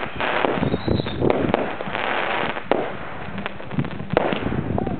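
Fireworks going off: a dense run of sharp bangs over continuous crackling, with no let-up.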